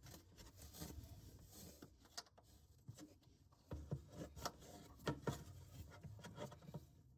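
Faint scraping and clicking of a screwdriver working at the screws of a camper wall panel, in short irregular bursts.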